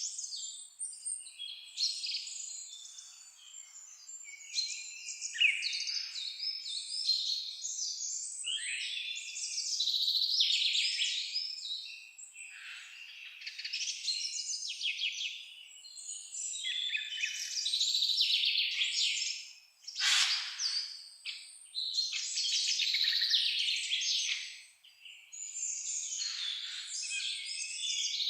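A dense chorus of songbirds chirping and singing over one another without pause, all high-pitched trills and quick chirps. About two-thirds of the way through, one sharp call sweeps downward and stands out a little lower than the rest.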